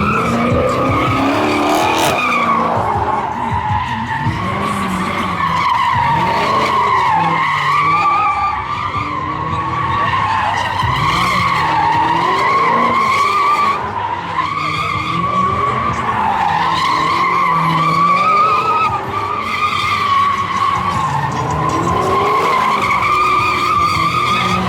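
Car tyres screeching without a break as a car slides and spins, the pitch of the screech wavering, with the engine revving up and down under it.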